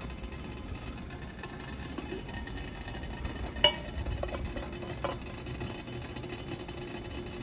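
A steady low rumble, with one sharp ringing clink a little past halfway and a softer click about a second and a half later.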